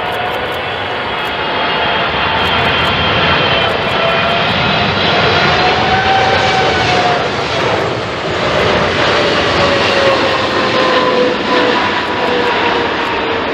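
Twin-engine jet airliner passing close on its landing approach: a loud, steady engine roar with whining tones that fall in pitch as it goes by.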